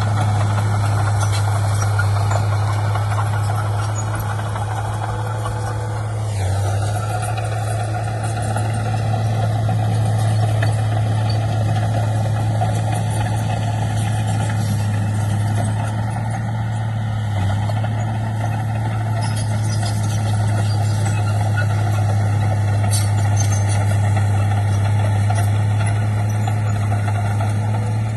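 Heavy diesel earthmoving machinery running steadily, with a higher whine that drops in pitch about six seconds in.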